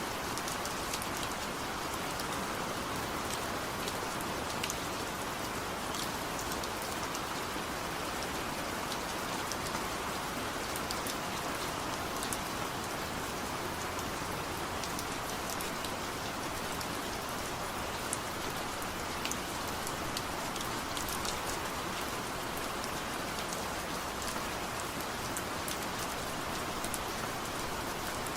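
Steady, gentle rain falling without thunder, a constant hiss with scattered sharp drop ticks.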